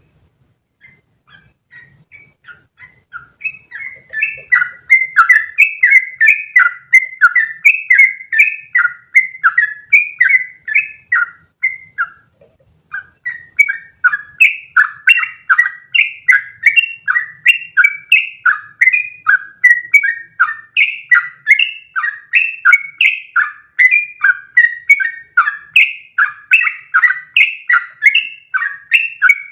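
Yellow-vented bulbul (trucukan) singing a long, rapid run of short repeated notes. The song starts faint, grows loud within the first few seconds, breaks off briefly about twelve seconds in, then runs on unbroken.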